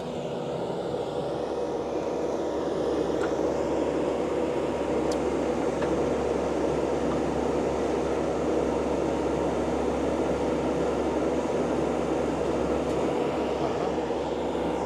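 Heavy equipment engine running steadily at constant speed, a continuous mechanical drone with no change in pitch.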